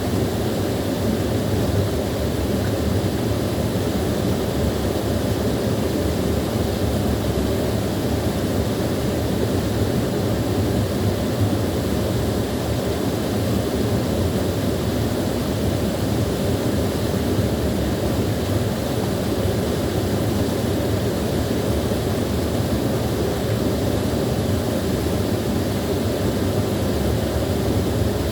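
Small waterfall, water pouring and splashing in a steady, unbroken deep rush.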